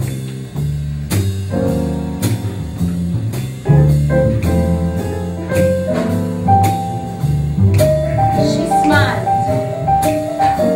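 Jazz combo playing: piano over a stepping bass line, with drums keeping a steady beat.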